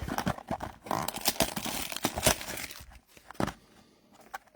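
Plastic wrapping on a trading card box being torn and crinkled: a run of crackling rustles for about three seconds, then a single click.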